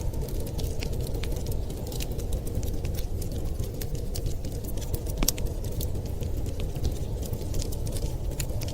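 Wood fire crackling: frequent small sharp pops and snaps, irregularly spaced, over a steady low rumble.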